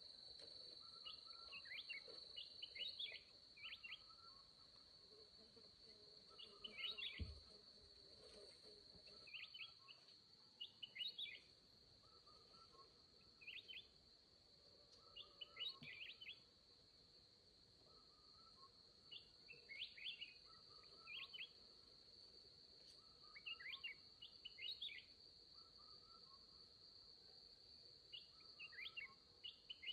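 Faint forest ambience: a steady high-pitched insect drone, with a bird singing short chirping phrases every few seconds. There is a faint low thud about seven seconds in.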